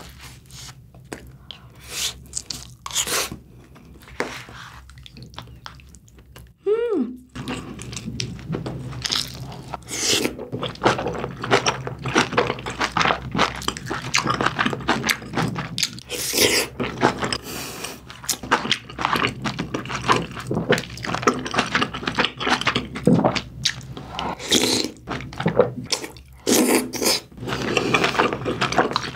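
Close-miked eating sounds of braised kimchi stew (kimchi-jjim): a few light clicks of a wooden spoon at first, then from about seven seconds in, steady wet chewing of a mouthful of soft aged kimchi and pork.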